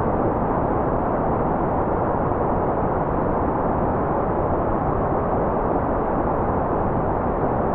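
Steady, unbroken white noise for focus or sleep, muffled and rumbling rather than hissy, with nearly nothing above the upper midrange.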